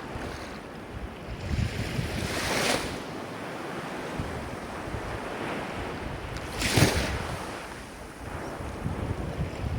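Ocean surf washing steadily, with two louder wave breaks, one about two and a half seconds in and one near seven seconds. Wind buffets the microphone with a low rumble.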